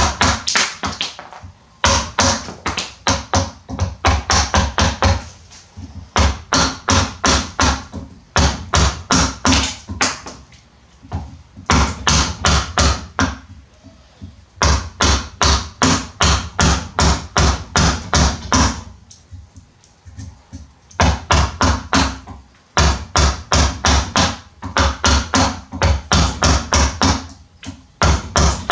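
Rapid, even tapping strikes on wood, about four a second, in runs of a few seconds with short pauses between.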